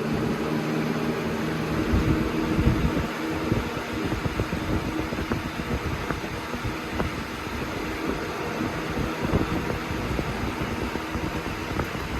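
Lasko Weather-Shield box fan running on high: a steady rush of moving air, with a low motor hum that fades after the first few seconds.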